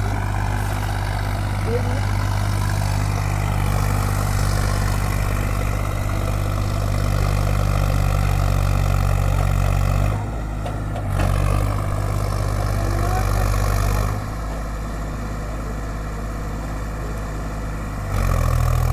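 Sonalika 50 hp 4x4 tractor's diesel engine running steadily. Its sound drops briefly about ten seconds in, falls off again from about fourteen seconds, and picks back up near the end.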